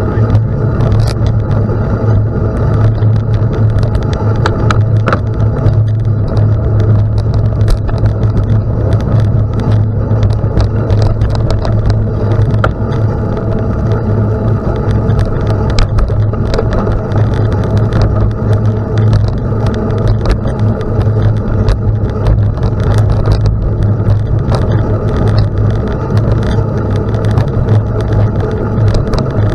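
Steady rolling drone of a gravel bike in motion, tyres humming at one constant low pitch, with frequent small ticks and crackles scattered throughout.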